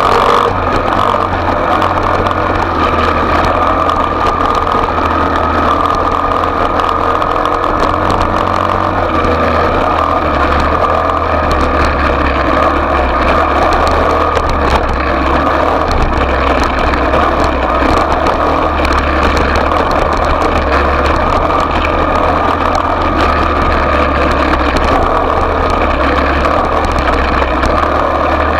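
Small off-road motorcycle engine running steadily at a fairly even speed, without sharp revving.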